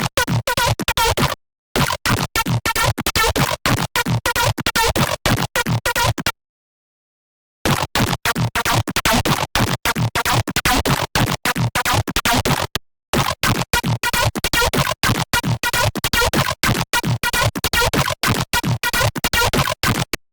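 Serum wavetable synthesizer patch, built from a wavetable made from an AI-generated image, playing a fast, choppy run of stuttering notes. It cuts to dead silence briefly about a second and a half in, for over a second around six seconds in, and briefly near thirteen seconds.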